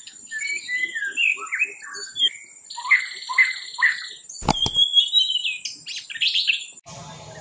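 Birds chirping and calling in quick, varied phrases over a thin, steady high tone, with one sharp click about two-thirds of the way through. Near the end this gives way abruptly to a steady low hum.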